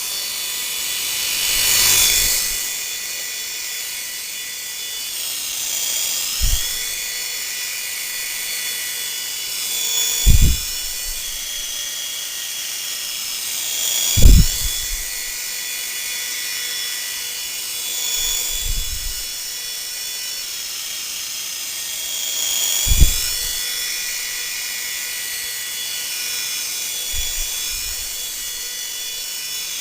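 Mini radio-controlled toy helicopter's motor and rotors whining steadily, the pitch dipping and rising every few seconds. Several short low thumps break through, the loudest about ten, fourteen and twenty-three seconds in.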